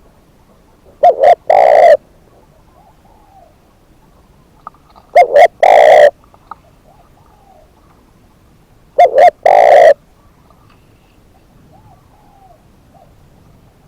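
Spotted dove cooing three times, about four seconds apart, each phrase two short notes followed by a longer drawn-out coo, the territorial song of a male decoy bird. Fainter birdcalls sound between the phrases.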